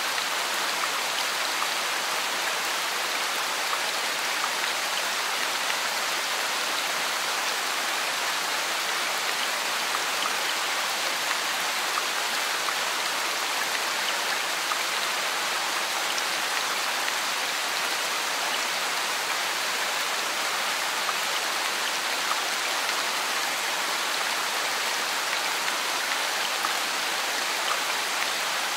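Rain falling steadily on wet brick paving: an even hiss of countless drops splashing on the water-covered bricks.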